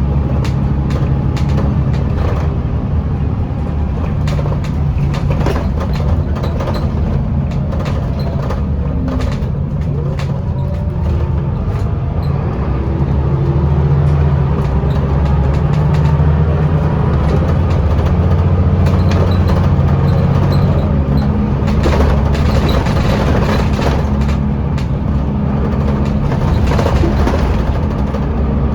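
Interior of a Scania L94UB city bus under way: the engine drones steadily through the ZF automatic gearbox, growing louder in the middle as it pulls, with frequent short rattles from the bodywork.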